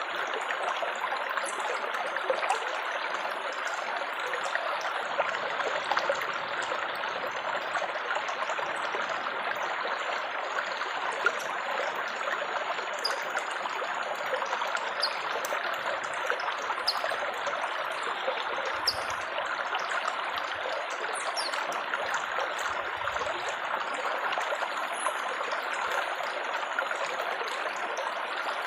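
Water trickling and splashing steadily, a continuous babbling like a small stream.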